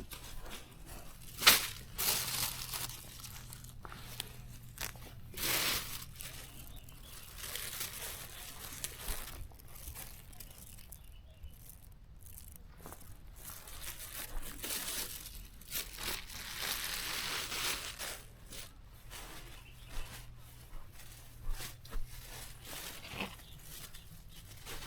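Irregular rustling and tearing of plants being pulled and handled, with scattered snaps; the loudest is a sharp snap about a second and a half in.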